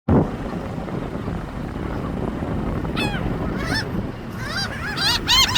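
Seagulls calling: short, arched cries begin about three seconds in and come faster and louder toward the end, over a steady low background noise.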